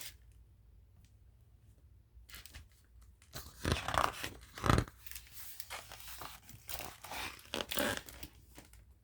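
Paper pages of a picture book being handled and turned, a run of irregular rustling and crinkling that starts about two seconds in.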